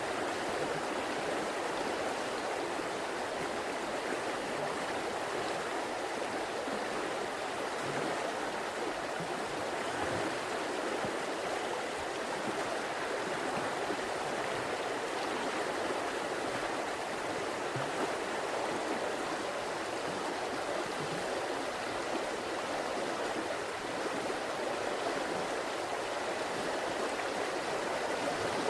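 A river flowing and rushing steadily over stones, a continuous even wash of water.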